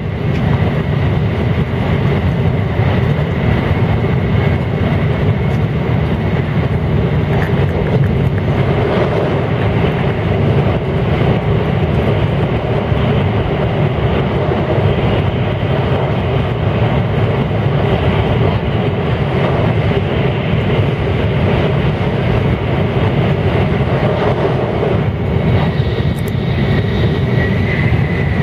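Tokaido Shinkansen train running at speed, heard inside the passenger cabin: a steady dense rumble of wheels, rails and rushing air, with a faint high whine held throughout.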